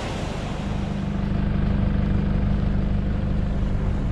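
A four-wheel-drive vehicle's engine running with a steady low drone. Surf noise fades out in the first half-second.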